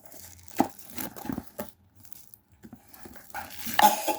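Irregular handling noises: scattered knocks and rustling, with a louder crinkling rustle near the end.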